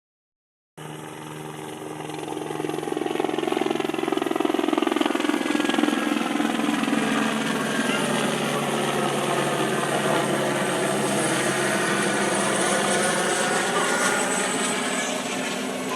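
Helicopter flying overhead, a steady rotor and engine drone that grows louder over the first few seconds and then holds.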